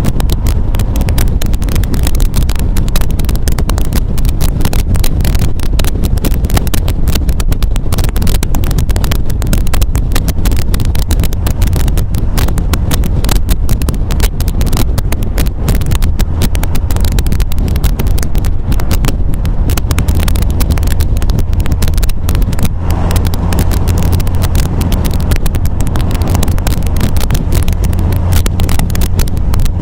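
MGA roadster's four-cylinder engine running under way on the road, a steady low drone with road and wind noise.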